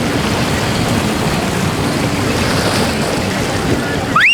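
Steady rush of wind and water noise with boat engines at a busy inlet. Near the end it gives way to a loud sliding whistle that rises, dips and rises again.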